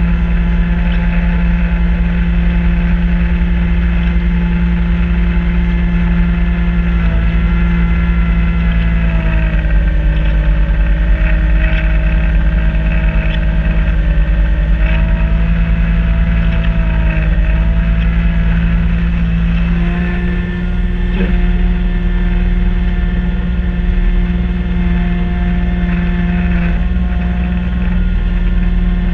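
Kubota B2650 compact tractor's three-cylinder diesel engine running steadily under work with its front-mount B2782 snow blower. The engine speed sags slightly for several seconds midway, then picks back up.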